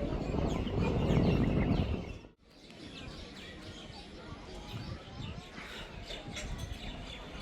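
Outdoor ambience with small birds chirping. For the first two seconds a louder low rumble of background noise covers it, then the sound cuts suddenly to a quieter ambience where many short, high chirps stand out.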